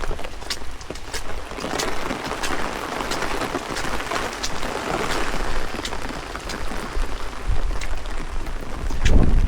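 Rain falling, with many sharp drops ticking close to the microphone, over the low rumble of strong wind buffeting the microphone. The wind gusts louder near the end.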